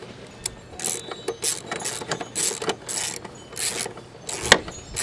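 Hand ratchet wrench worked in repeated rasping strokes, about one and a half a second, with a sharp metallic click about four and a half seconds in.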